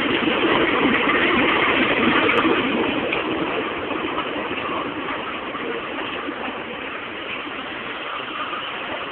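A train's steady running noise, loudest in the first three seconds and then slowly easing.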